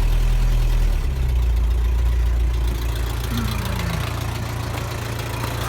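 Toyota 22R four-cylinder engine with a Weber carburetor idling steadily on a cold morning, shortly after a cold start and still warming up. Its low note shifts a little about a second in.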